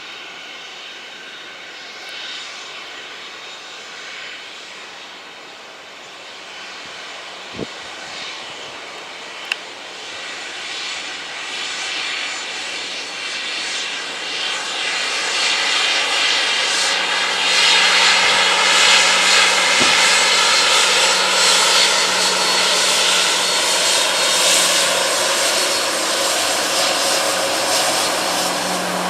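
Jet airliner's engines growing steadily louder as the aircraft comes close: a rushing roar with a layered whine of several steady tones that sit slightly downward in pitch. Two sharp clicks come about a third of the way in.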